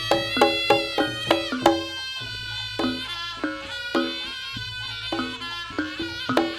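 Javanese jaranan campursari ensemble playing: short pitched percussion strikes about three a second under a wavering, held melody line.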